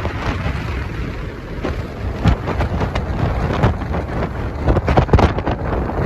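Wind buffeting the microphone: a rough low rumble that swells and thumps irregularly with the gusts.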